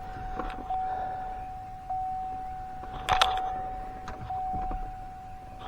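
A 2004 Chevy Silverado's steady electronic warning chime sounding from the cab, with a sharp clunk about three seconds in and a few light clicks.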